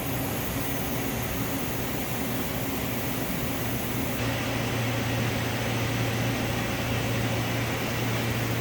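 Steady industrial machinery hum with a low tone and a hiss over it; about four seconds in the hiss thins and the low hum grows louder.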